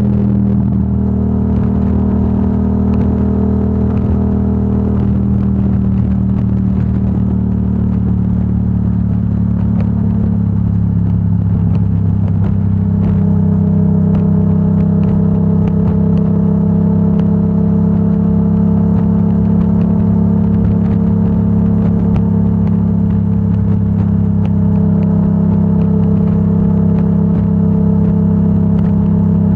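Yamaha R7's 689 cc parallel-twin engine running through a Yoshimura AT2 full exhaust at steady cruising revs, with a deep, even exhaust note. About halfway through the pitch settles slightly higher and a little louder, holding steady from there.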